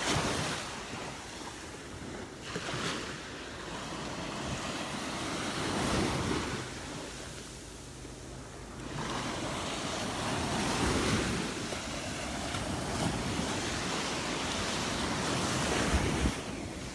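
Surf breaking and washing up on a sandy beach, swelling and fading about every five seconds, with wind buffeting the microphone.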